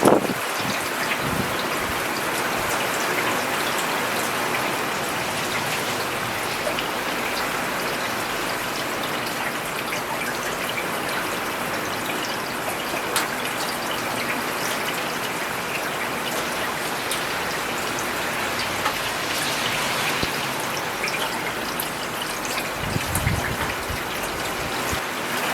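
Steady rain falling on a road: an even hiss with scattered sharp ticks of individual drops.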